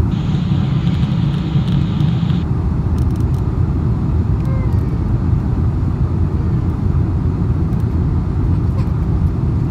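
Strong dust-storm wind buffeting the microphone: a loud, gusting low rumble, with a higher hiss that cuts off about two and a half seconds in.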